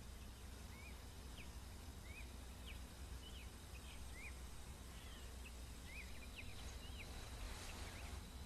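Faint ambience: a low steady hum with scattered short bird chirps, about a dozen quick chirps that sweep up or down in pitch.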